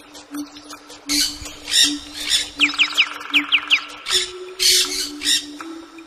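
Birds giving harsh, repeated squawking calls, with a quick run of about seven downward-sweeping whistled notes over a buzzy trill in the middle.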